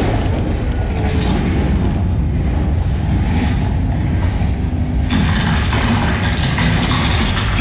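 Simulated earthquake effect in a theme-park ride: a loud, steady low rumble with mechanical rattling and creaking. About five seconds in, a louder crashing noise reaching into higher pitches joins the rumble.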